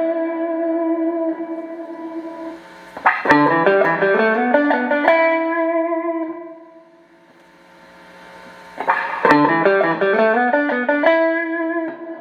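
Clean electric guitar played through a Boss RV-6 reverb pedal into Roland JC-120 amps. It picks quick rising arpeggios that settle on held chords, which ring and fade slowly in the reverb. Two such phrases start about three seconds in and near nine seconds, each opening with a sharp pick stroke.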